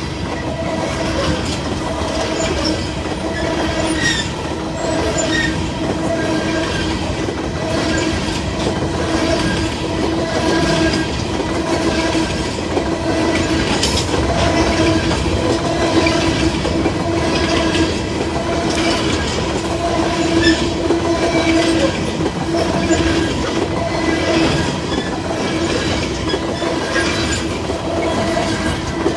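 Empty coal train's cars rolling past, the wheels clacking over rail joints in a steady rhythm about once a second, with a sustained ringing tone from the wheels on the rail.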